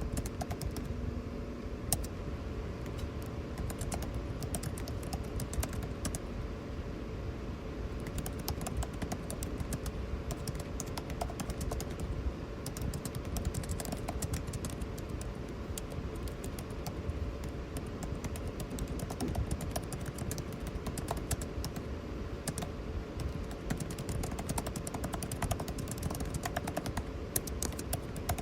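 Computer keyboard typing in quick, irregular runs of key clicks, over the steady hum and rush of air conditioning.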